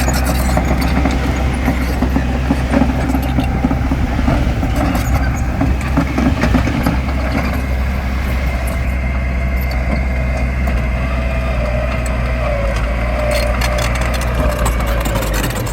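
Heavy diesel construction machine engine running steadily under load, with scattered metallic clanks and knocks and a thin whine in the second half.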